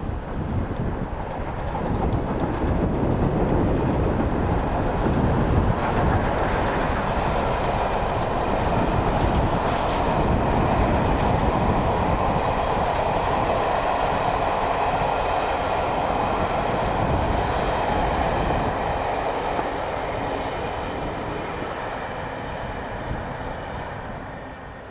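A steam-hauled train running past with a steady rumble and rattle of locomotive and carriages. It builds over the first couple of seconds and fades away over the last few.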